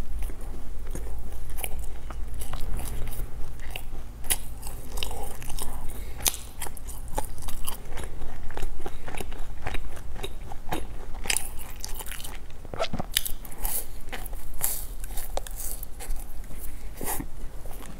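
Close-miked biting and crunchy chewing of a peanut and raisin snack bar, a dense run of irregular sharp crunches and crackles.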